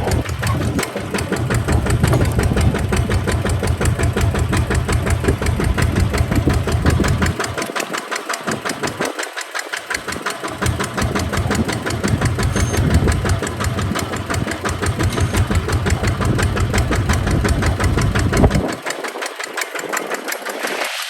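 Kubota tractor's diesel engine running with a fast, even firing beat. Its deep low rumble drops away briefly about eight seconds in and again near the end.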